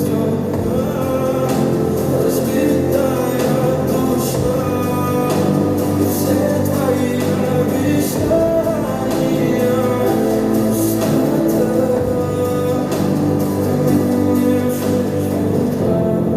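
Russian-language pop song playing, singing over a steady beat.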